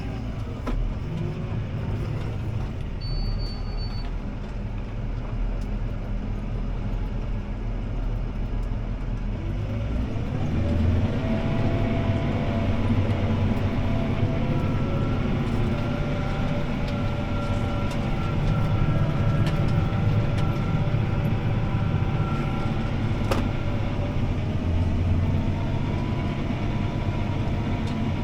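CLAAS ARION 650 tractor's diesel engine running steadily under load, heard from inside the cab while pulling a disc harrow. About ten seconds in the engine note rises and then holds a little louder.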